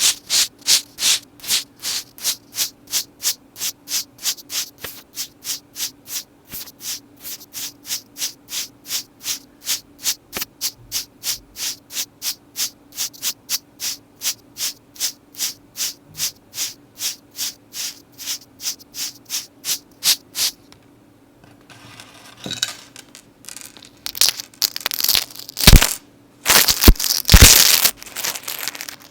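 Close-up rubbing strokes in a steady, even rhythm of about two and a half a second, bright and scratchy. After a brief pause near the end, a metal chain necklace is handled with irregular clinks and a few sharp clicks.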